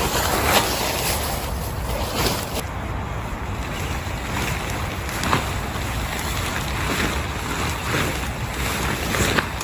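Heavy rain and strong wind, with wind rumbling on the microphone and a few sharper taps now and then.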